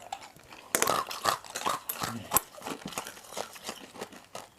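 Irregular crinkling and crunching clicks from food and its packaging being handled and eaten, with one sharp click about two and a half seconds in.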